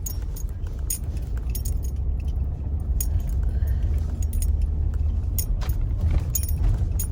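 Ford F-150 pickup truck driving, heard from inside the cab as a steady low rumble of engine and road, with scattered light jingling clinks.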